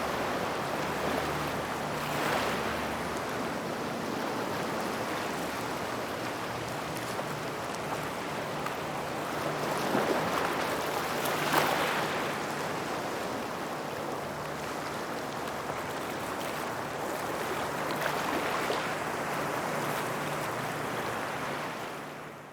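Small waves breaking and washing over a gravel shoreline near rocks: a steady rush of water that swells several times as waves come in, loudest about ten and twelve seconds in, then fades out at the very end.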